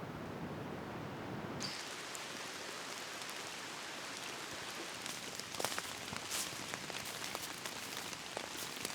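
Steady rain falling, a soft even hiss that turns brighter about one and a half seconds in, with scattered individual drops striking louder in the second half.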